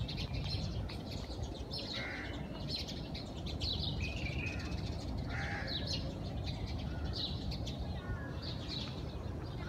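Birds chirping with short high calls, one or two a second, over a steady low rumble.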